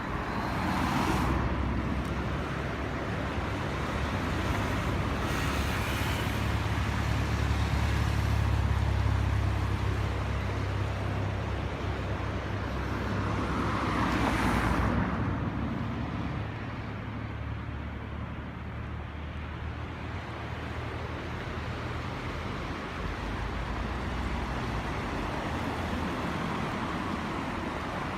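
Road traffic: a low steady rumble with two vehicles passing louder, about a second in and again around fourteen seconds.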